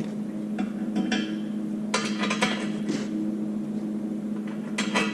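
Steel bolts and small metal parts clinking and clattering as they are handled and knocked together, in several bursts with the busiest one in the middle, over a steady hum.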